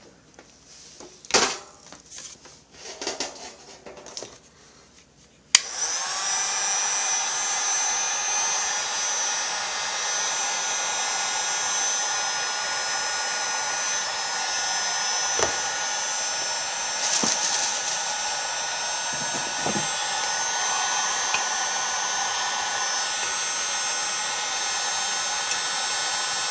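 A few handling clicks and rustles, then about five and a half seconds in a heat gun switches on and runs steadily with a fan whine. It is heating a chainsaw crankcase half so the crankshaft can be pressed in.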